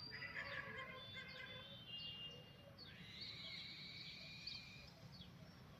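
Several birds chirping and calling at once, faint, with short whistles, held notes and quick sweeps overlapping, over a low steady background rumble.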